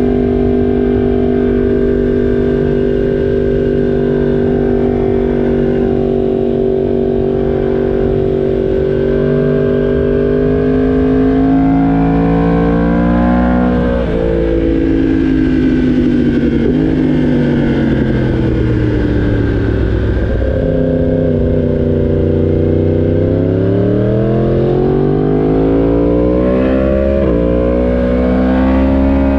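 Yamaha R1 sportbike's inline-four engine under way: steady at first, then revving up with gear changes around the middle, easing off and pulling up again, with another shift near the end.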